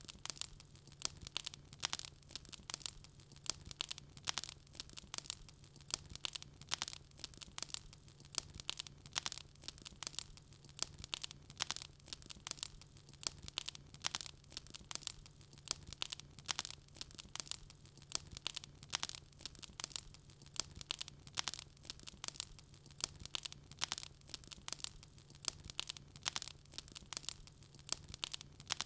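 Wood fire crackling: a dense, irregular run of sharp pops and snaps that never lets up, over a steady low hum.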